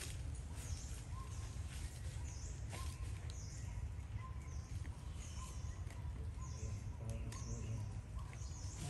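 A bird calling over and over, a short high chirp about once a second, over a steady low rumble.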